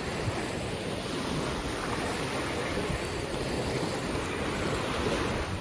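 Steady wash of sea surf, a continuous noise with no distinct breaks.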